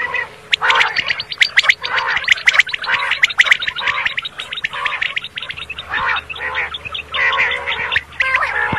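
Common quail calling: a dense run of rapid, overlapping calls with a crackling chatter, and short arched notes repeating about twice a second.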